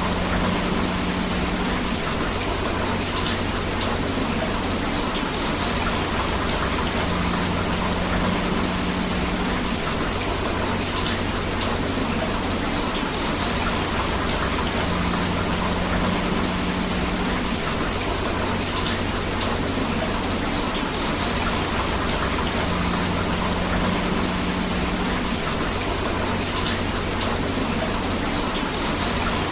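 Steady rain falling together with a flowing river, a dense even hiss of water without pause. A short low tone returns about every eight seconds.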